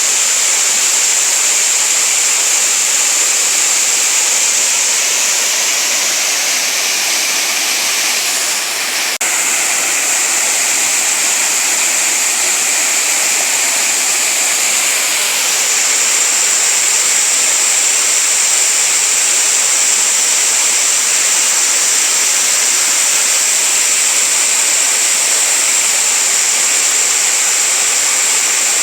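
Waterfall and stream water pouring and rushing in a steady, loud hiss, with a brief dip and a faint click about nine seconds in.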